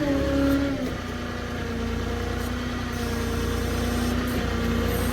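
Boom truck's engine running steadily while the hydraulic boom is worked out to unload, with a steady whine over the low rumble that sets in about a second in.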